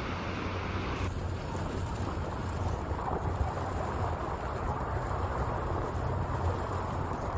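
Steady rushing noise of floodwater with wind buffeting the microphone. The sound changes abruptly about a second in, losing its highest hiss.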